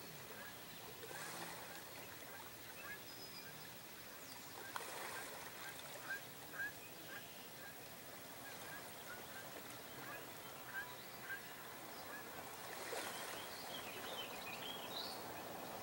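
Faint outdoor ambience with small birds giving short repeated chirps in the distance, and a brief flurry of chirpy notes near the end.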